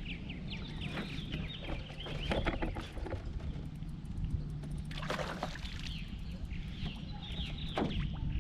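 Steady low hum of a small boat's electric trolling motor, with two spells of short high chirping bird calls over it and a few light knocks.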